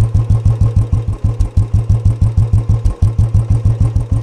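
Royal Enfield Bullet single-cylinder engine idling through a de-baffled stock bend pipe and a K Indori three-filter silencer, giving an even exhaust beat of about six pulses a second. The beat is tuned to mimic the old cast-iron-engine Bullet's thump.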